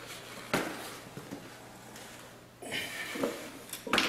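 Handling noises as a porcelain toilet is gripped at the base to be lifted: a sharp knock about half a second in, then scraping and clicks near the end.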